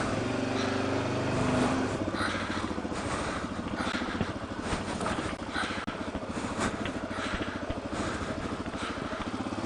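Suzuki DR-Z400's single-cylinder four-stroke engine running at low revs while riding over rocky ground, with scattered knocks and clatter from the rough trail.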